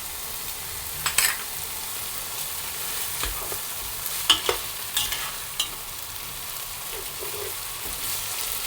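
Chicken frying in green curry paste, sizzling steadily in the pan, while a utensil is stirred through it, knocking and scraping against the pan several times.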